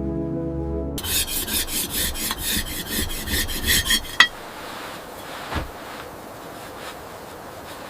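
Rapid rhythmic rasping strokes, about three or four a second, for about three seconds, ending in a sharp snap. Quieter rustling and a few faint knocks follow. Soft music fades out about a second in.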